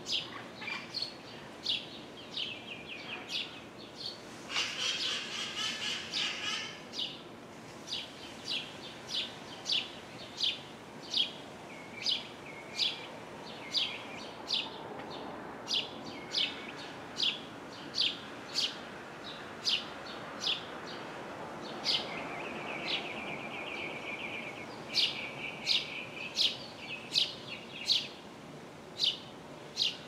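Small bird chirping over and over, short sharp high chirps repeating roughly every two-thirds of a second, with a longer trill about five seconds in and a buzzy trill a little past twenty seconds in.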